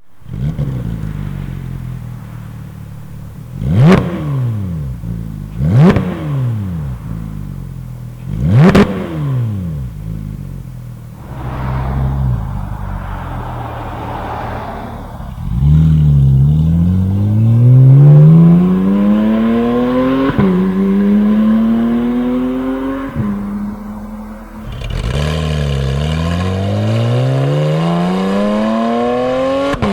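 Porsche 991 GT3's 3.8-litre flat-six breathing through Fabspeed sport headers and side muffler bypass pipes. It idles, blips the throttle sharply three times, then pulls hard with the pitch climbing and dropping back at each upshift.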